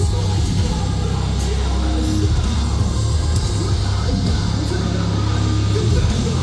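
Metalcore band playing live and loud: distorted electric guitars, bass and drums.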